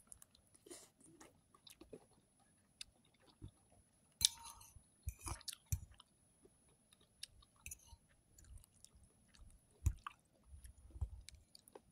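A person chewing food close to the microphone: soft, irregular mouth clicks and smacks, a little louder around the middle.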